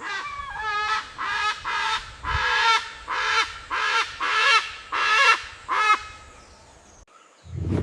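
An animal calling: about ten short, pitched calls in quick succession, stopping about six seconds in.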